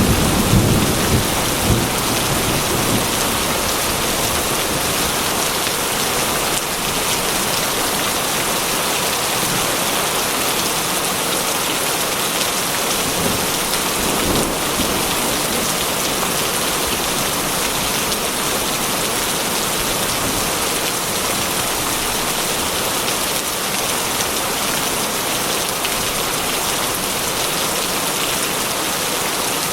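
Steady heavy rain, a dense even hiss. The tail of a rumble of thunder dies away in the first couple of seconds.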